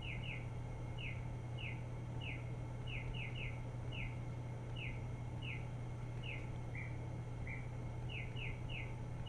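Synthesized cardinal-style chirps from an RP2040 birdsong synthesizer through a speaker: one short down-slurred chirp repeated over and over at an uneven pace of about two a second, with two lower, flatter notes about seven seconds in. A steady low hum runs underneath.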